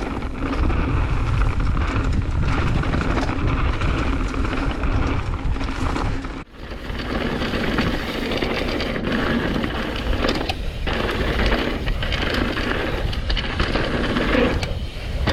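Trek Fuel EX 7 full-suspension mountain bike riding fast down a rough dirt trail, heard from a rider-mounted camera: wind buffeting the microphone, tyres rolling over dirt and rocks, and knocks and rattles from the bike over the bumps. The sound drops out briefly about six and a half seconds in.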